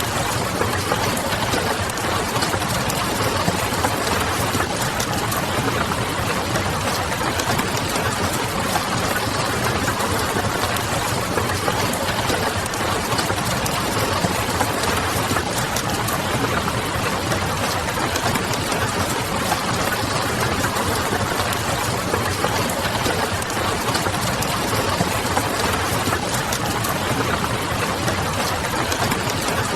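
Steady rain with a wood fire crackling in small scattered ticks, over a low, steady hum.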